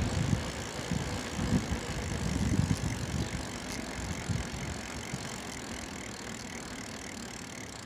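Riding noise from a bicycle: an irregular low rumble, heaviest in the first three seconds, then settling into a steady, quieter hiss.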